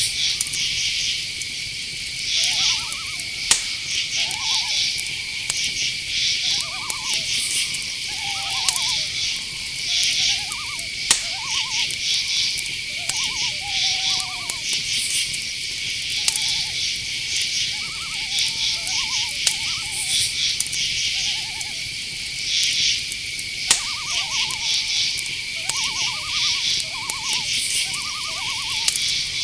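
Night-time insect chorus: a steady high cricket trill with repeated pulsed chirps above it, and many short, lower calls, some pulsed, some sliding in pitch, from another night animal calling again and again.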